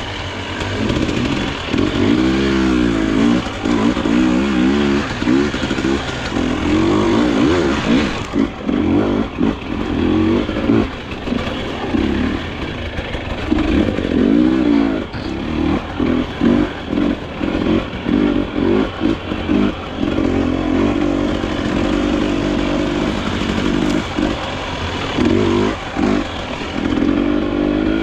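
Dirt bike engine being ridden on a trail, its note rising and falling again and again as the throttle is opened and closed.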